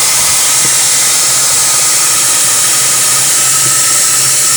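Handheld electric hot-air blower running steadily, a loud even rush of air with a faint steady whine.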